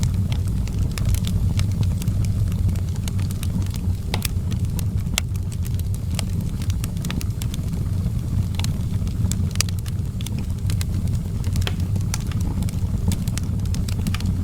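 Fire burning in a fireplace: a steady low rumble of the flames with irregular sharp crackles and pops scattered throughout.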